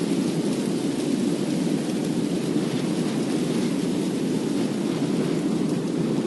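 Steady rushing noise like heavy rain, deepest and strongest in the low-middle range.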